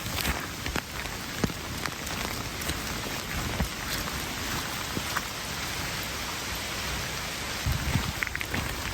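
Steady rain falling, with scattered sharp ticks of individual drops hitting close by.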